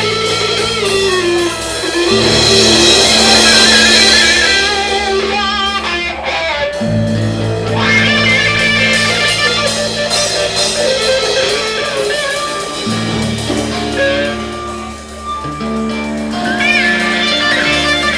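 Live rock band playing an instrumental passage, with electric guitar lines bending over a bass line that changes note every few seconds.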